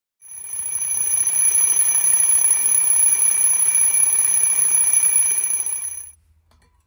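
Alarm clock ringing continuously for about six seconds, fading in at the start and stopping near the end.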